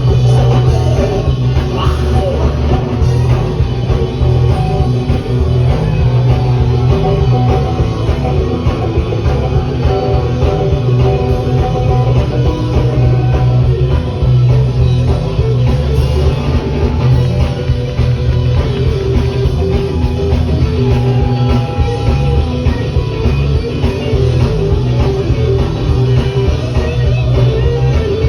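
Live rockabilly band playing loud, with electric guitar and a drum kit over a heavy bass line.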